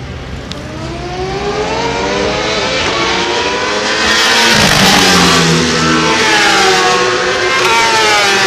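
Racing motorcycle engines accelerating hard and getting steadily louder as they approach, the pitch climbing, dropping briefly at a shift a little past halfway, then climbing again. Several engines can be heard at once.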